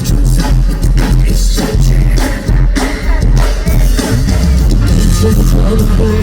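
Live rock band playing loudly, with a drum kit beating out a steady rhythm over electric guitars and bass.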